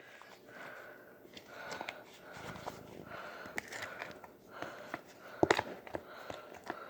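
Scattered clicks and knocks of a utensil against a mixing bowl while cookie dough is worked, with a loud cluster of knocks about five and a half seconds in.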